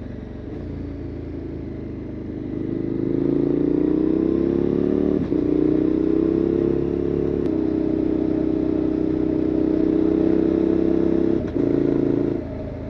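KTM 1290 Super Adventure S's V-twin engine through a Wings titanium exhaust, pulling hard: the note climbs in pitch, then holds high with short breaks at gear changes about five and seven seconds in and again near the end, before easing off.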